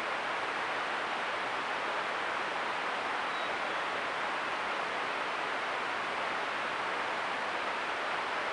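Steady rain falling, an even hiss with no separate events.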